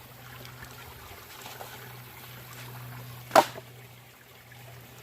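Low-running creek trickling steadily, with one sharp, loud knock a little past three seconds in.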